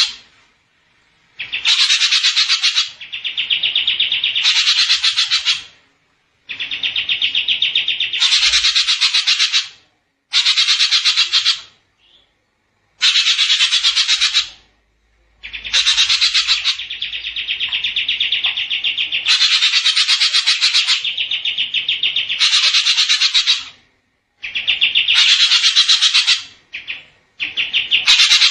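A small songbird chirping in fast, dense trills, in repeated bursts of one to three seconds with short breaks between them.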